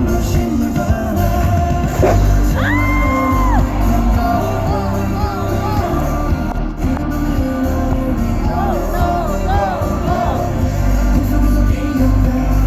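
Live pop music played loud over a concert sound system, with a heavy bass beat and a few long held sung or synth notes, under crowd whoops and shouts.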